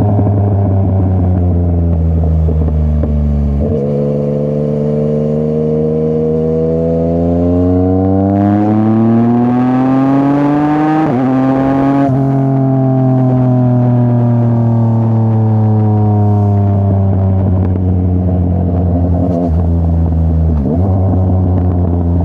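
Yamaha MT-09's CP3 inline three-cylinder engine through a full Akrapovic exhaust, under way. After a gear change about four seconds in, it accelerates with rising pitch for several seconds, with a quick shift near the top. It then rolls off, the pitch falling slowly, with two more gear changes near the end.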